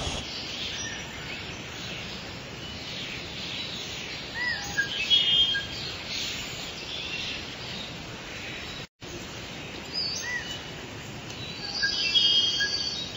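Songbirds chirping and calling: scattered short chirps and a few brief trills over a steady outdoor hiss, busiest about a third of the way in and again near the end. The sound drops out for an instant about two-thirds through.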